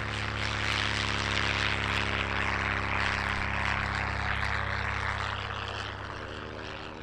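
Fairchild Argus light monoplane's piston engine and propeller droning in flight, growing louder and then fading over the last couple of seconds as it passes.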